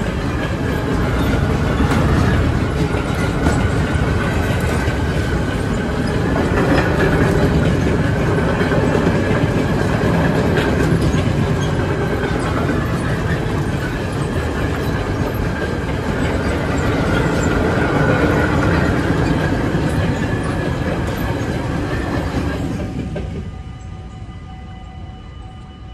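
A long freight train of covered wagons rumbling past over the rails, its wheels clicking over rail joints with a wavering wheel squeal. The train noise falls away a little before the end as the last wagon clears, leaving the steady ringing of the level crossing's electronic bells.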